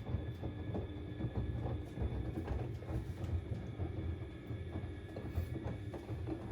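Siemens Extraklasse XLS 140 A front-loading washing machine in its wash cycle: a low rumble from the turning drum with irregular soft thuds as the laundry tumbles, and a faint steady whine above it.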